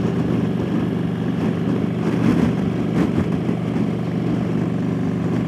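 Motorcycle engine running steadily at highway cruising speed, with wind rushing over the microphone in a gusty crosswind.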